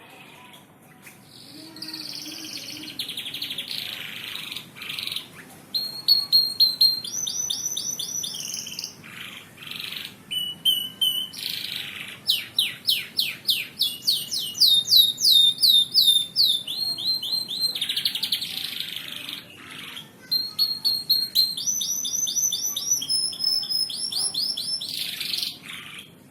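Domestic canary singing a long song of rapid trills: runs of quick repeated high notes, broken by harsher rattling phrases and short pauses.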